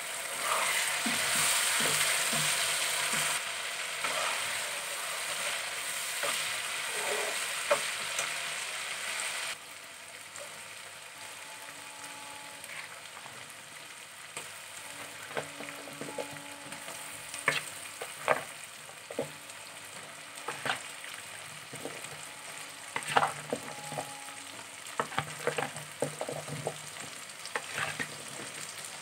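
Masala sizzling in a nonstick kadai, loud for the first nine seconds or so and then quieter, while a metal spoon stirs it and clicks against the pan many times.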